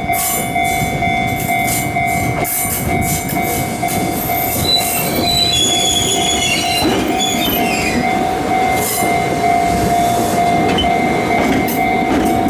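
An electric train on the Fujikyuko Line running past, with rumbling and a high whine of wheels or motors that glides in pitch around the middle. A repeating ringing tone sounds throughout.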